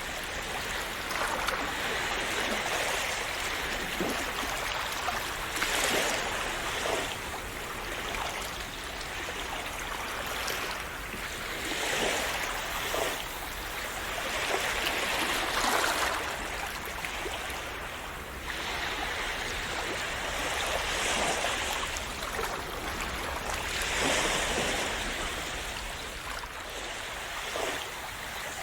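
Calm sea waves washing and splashing on the shore, a steady rush that swells with a breaking wave every four to six seconds.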